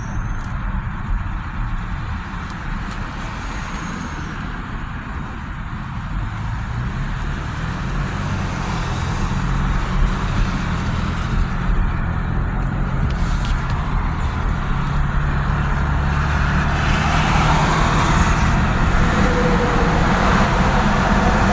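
Steady road and traffic noise with a low rumble, growing louder over the second half.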